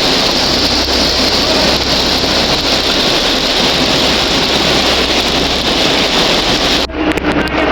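Heavy rain pouring down as a loud, steady hiss. About seven seconds in it cuts off abruptly to a quieter hiss with scattered ticks and clicks.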